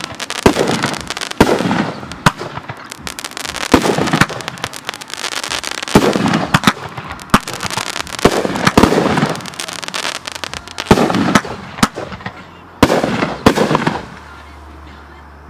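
Aerial fireworks going off: a busy, irregular series of sharp bangs from bursting shells, with crackling and fizzing between them. It quietens in the last second or so.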